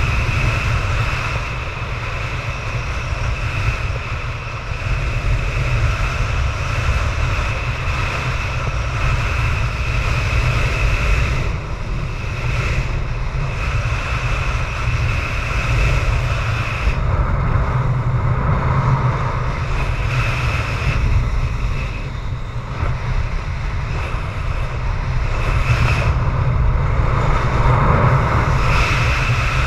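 Very strong wind, about 25 m/s, buffeting the microphone: a loud, continuous low rumble that swells and eases with the gusts, with a high whistle that comes and goes.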